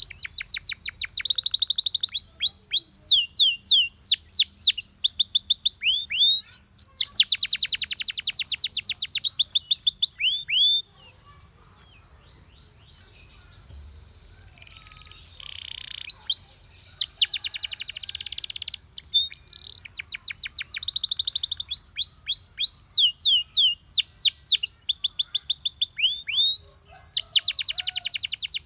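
Domestic canary singing: fast rolling trills alternate with runs of quick, high, downward-sweeping chirps. The song cuts off suddenly about eleven seconds in, leaving only faint notes for several seconds, then starts again.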